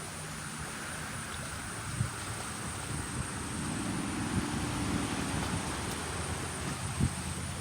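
Wind buffeting the microphone, with a steady low engine hum that grows louder through the middle and then fades, and a few light knocks.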